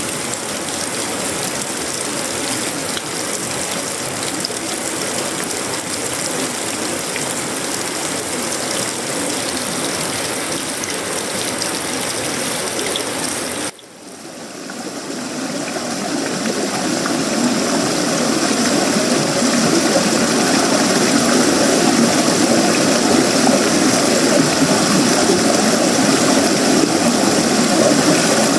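Tropical rain falling on sheet-metal roofing, wood and leaves, a steady rushing patter. About halfway it cuts out abruptly, then swells back over a few seconds and settles louder and fuller than before.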